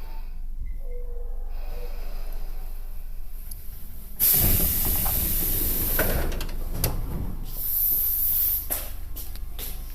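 A sudden loud hiss of rushing air starts about four seconds in and lasts about three seconds, followed by a second, shorter hiss and a few clicks, over a low steady hum.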